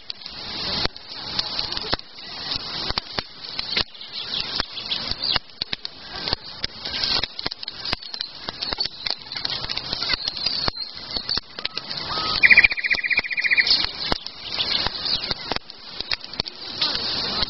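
Campfire crackling, with irregular snaps and pops. A short, fast high trill, likely a bird, sounds about twelve seconds in.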